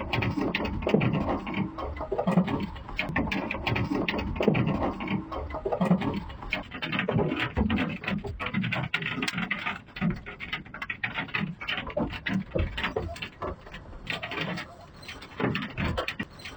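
Hailstones pelting hard surfaces in a dense, irregular patter of sharp cracks and knocks, with heavier low thuds among them.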